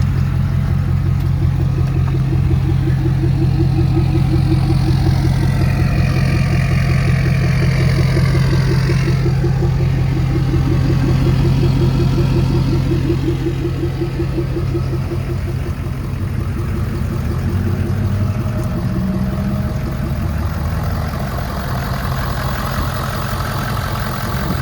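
Lifted diesel truck's engine idling steadily with an even, rapid pulse, a little quieter from about halfway through.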